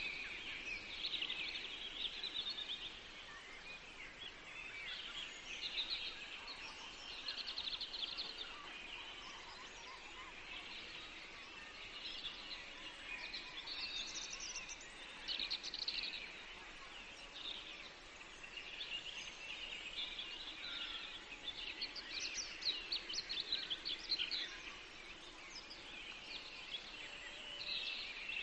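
Several songbirds singing and chirping at once, with overlapping short phrases of high, quick notes and a faint steady hiss behind them.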